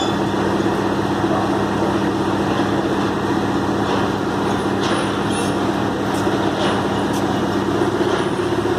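Heavy diesel engine of construction machinery running steadily under load, with a few light clicks partway through.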